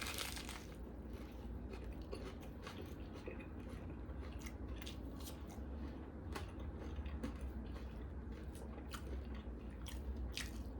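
Close-miked biting into a BLT sandwich with a loud crunch right at the start, then steady chewing with many small crisp crunches.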